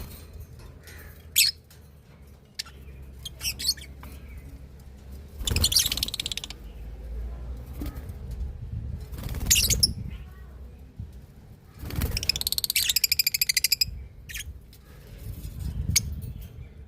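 Small birds chirping in short, scattered high calls with bouts of chatter, and a fast trill of rapidly repeated notes about twelve seconds in; a low rumble runs underneath.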